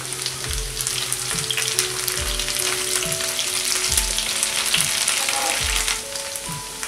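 Half-boiled potato pieces sizzling and crackling as they fry in hot oil in a non-stick pan, turned over slowly with a wooden spatula.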